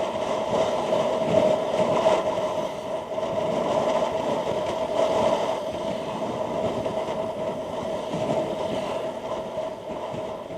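Steady wind and road noise of a moving motorcycle, heard at the rider's helmet, with a constant hum running under the rush.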